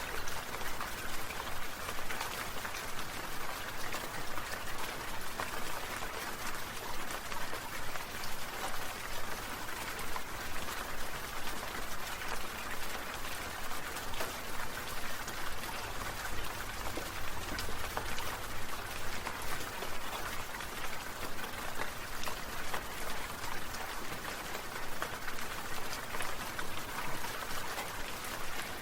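Water sprinklers spraying, drops pattering down steadily like rain.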